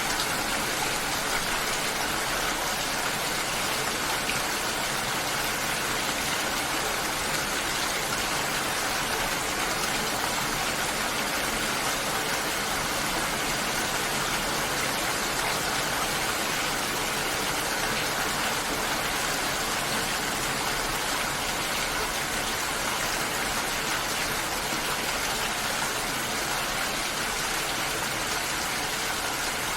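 Steady, even rush of water, unchanging in level, with no single drips or splashes standing out.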